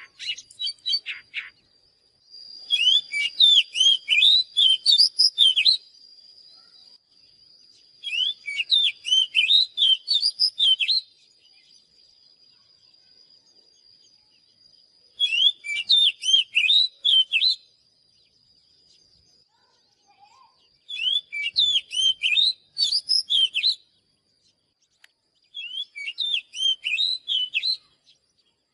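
Oriental magpie-robin singing in five bursts of rapid, varied whistled notes, each two to three seconds long with pauses between. A faint, steady, high thin tone runs under the first half.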